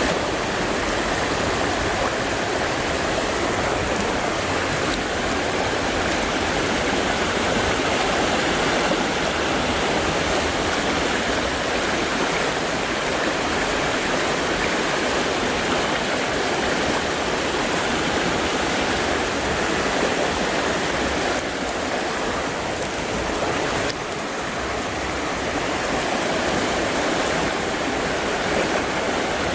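Creek water rushing steadily over rocks and riffles, a dense and constant loud wash of flowing water.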